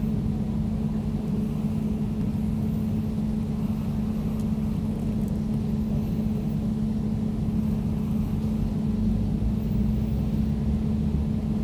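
Air conditioner running steadily, a constant low hum over a deeper rumble.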